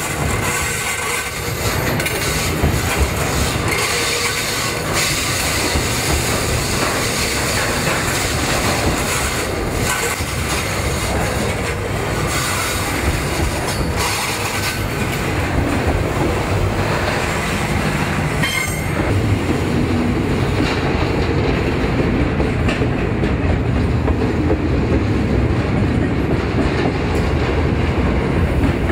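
Loaded container freight wagons rolling past close by: steel wheels rumbling and clattering on the rails. A faint high wheel squeal sits over the noise in the first part and fades about two-thirds of the way through.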